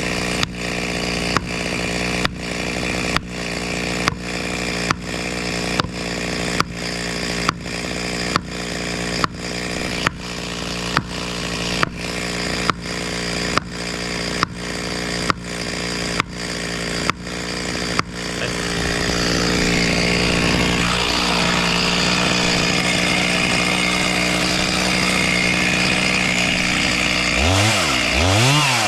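Chainsaw running steadily, broken by short regular dropouts a little more than once a second for the first two-thirds, then revved up and down twice near the end.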